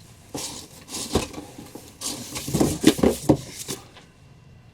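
Cardboard boxes and packaging being handled, with rustling and a run of knocks and clatters as items are moved and set down.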